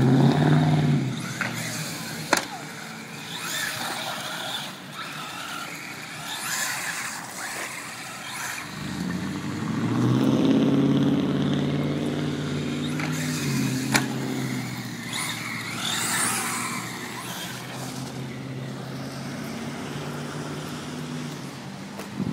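Traxxas 1/10 rally RC car driving on a wet surface: a pitched motor hum that swells near the start and again for several seconds around the middle, over a hiss of tyres on wet ground. There are sharp knocks about two seconds in and again near fourteen seconds.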